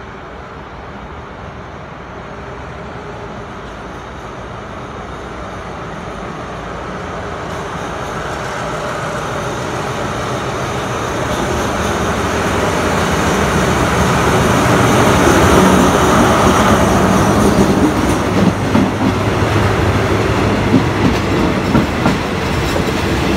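Alsthom AD24C diesel-electric locomotive approaching at the head of an express train, its engine growing steadily louder. Then the passenger coaches roll past with a clickety-clack of wheels over the rail joints as the train pulls in to stop.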